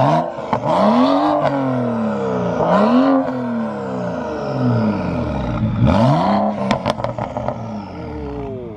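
Modified BMW engine revved three times through an exhaust whose valve is held open by a bypass harness, running like a straight pipe: each time the pitch climbs quickly and falls back slowly. A few sharp cracks come from the exhaust as the revs drop after the last blip.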